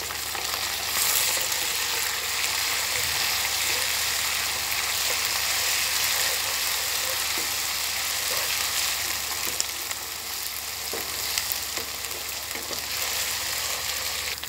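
Onions, whole spices and ginger-garlic paste sizzling steadily in hot ghee in a karahi, louder from about a second in, while a spatula stirs them with an occasional scrape or tap against the pan.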